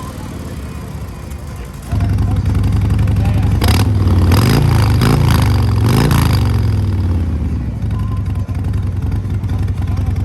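Harley-Davidson Breakout 114's Milwaukee-Eight V-twin idling through a full Kesstech exhaust, suddenly louder about two seconds in, then revved in three quick throttle blips before settling back to a steady idle.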